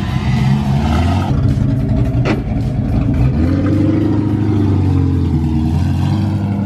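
Ford Mustang 5.0 V8 (Foxbody) engine running loud, revving up and back down around the middle, with a short sharp click about two seconds in.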